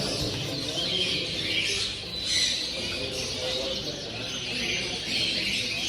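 Chorus of many small caged show birds, finches among them, chirping continuously over a low background murmur.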